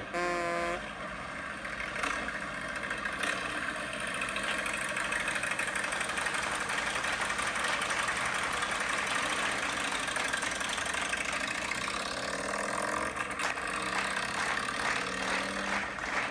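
Motorcycle engines running, mostly at idle, with a steady din over them.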